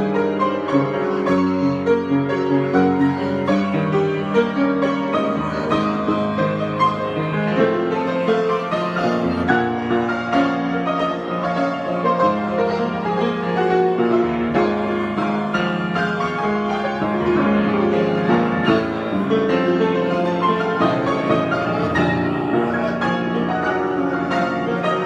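Piano improvisation: a continuous stream of held chords and moving notes, played at a steady loudness.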